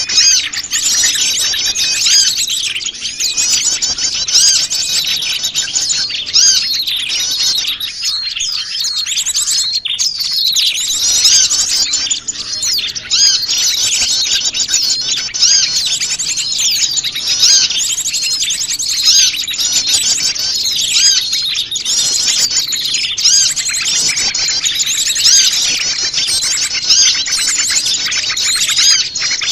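Dense, busy chorus of many small wild birds chirping and twittering at once, high-pitched and unbroken: a mixed small-bird lure call, the noisy kind played to draw wild small birds in.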